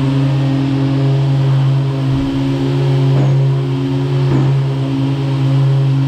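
Orbital sander running steadily at a constant pitch, sanding body filler on a car panel with a 240-grit disc.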